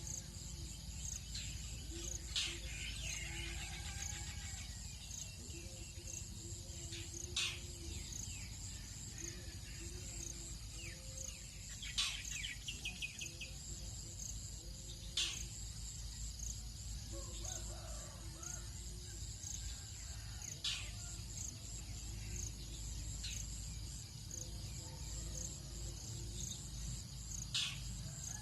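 Tropical dawn ambience: insects buzzing steadily in a high pulsing drone, with birds chirping and trilling. A short, sharp call rings out six times, every few seconds, louder than everything else, over a low rumble.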